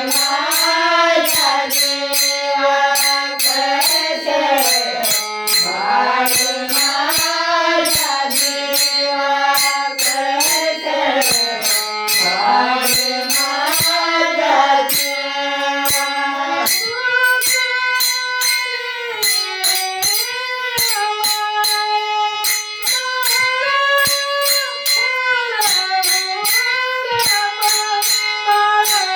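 A woman singing a Marathi song with a gliding melody, to jingling percussion that keeps a steady beat. About halfway through, the melody changes to steadier, held notes.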